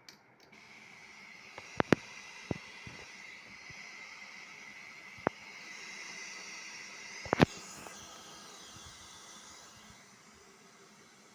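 Steady hiss with a faint high whine from a Yamaha PSR-E403 keyboard's speakers, the noise fault being repaired. A few sharp clicks come through it, the loudest about seven seconds in. The hiss fades somewhat near the end.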